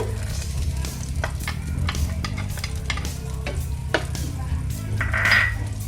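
Butter melting and sizzling in a frying pan on medium heat, with short clicks and scrapes of a utensil against the pan. A louder hiss of sizzle comes about five seconds in, over a steady low hum.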